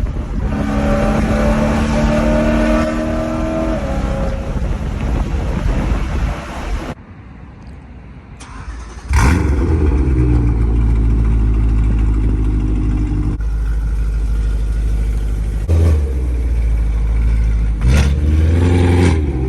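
BMW E92 M3's V8 running through a catless X-pipe and Borla ATAK exhaust, held at steady revs at first. After a brief lull it comes back loud with revs falling away, then takes short sharp throttle blips near the end.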